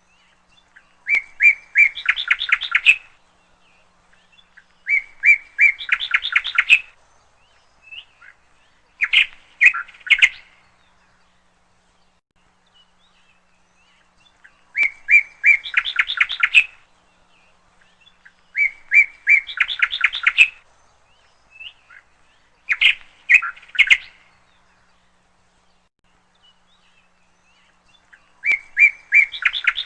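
A songbird singing, repeating a short phrase of rapid notes about seven times with pauses of a few seconds between. Some phrases are longer and some shorter.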